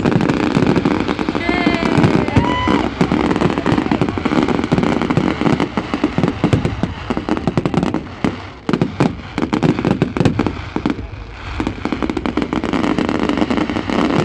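Fireworks display: a dense run of rapid bangs, pops and crackles, with a few short whistles about two seconds in and a brief lull a little past the middle.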